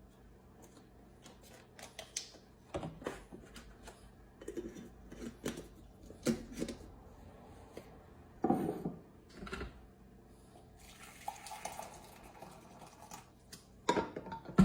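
Scattered clicks, taps and clatter of small hard objects being handled, a loose knock every second or so, the loudest about two-thirds of the way through and again near the end.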